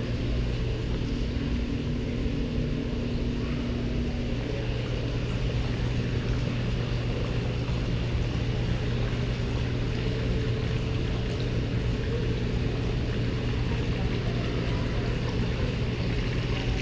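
A steady low mechanical hum with a few held tones over it; one higher tone drops out about four seconds in.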